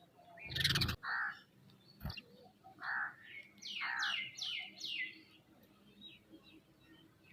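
Several birds calling at a feeding spot: short harsh calls and a run of four quick falling chirps. A loud harsh burst near the start and a sharp click about two seconds in.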